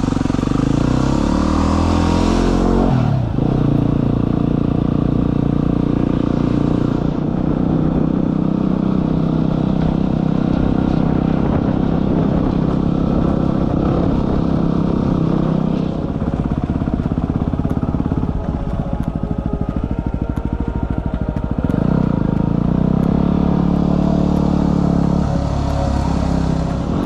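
Yamaha WR250R's single-cylinder four-stroke engine running, its note rising and falling with the throttle. There is a sharp drop about three seconds in, and a lower, choppier stretch in the second half before it picks up again.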